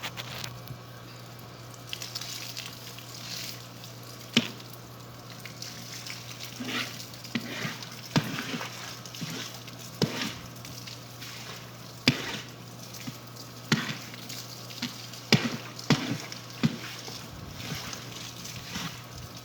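Irregular sharp clicks and light knocks, a dozen or so spread unevenly, over a steady low hum.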